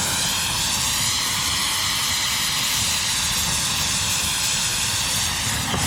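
Gas heating torch flame, a steady loud hiss, heating a seized attachment pin and its boss to free it.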